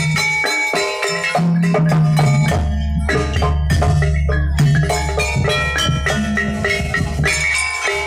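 Jaranan gamelan music, with struck metallophone notes and drums over a low sustained tone.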